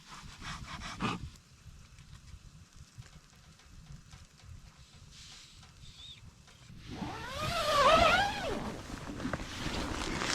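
A dog giving one wavering, high-pitched whine about seven seconds in, lasting about a second and a half, after a stretch of faint rustling and clicks.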